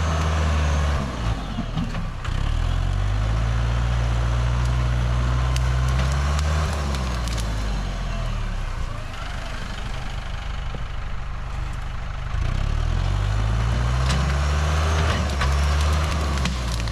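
Tractor engine running, its revs rising and falling several times, with a lower, quieter stretch in the middle.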